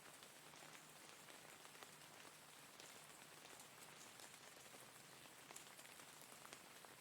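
Faint, steady rain, with many separate drops ticking irregularly over an even hiss.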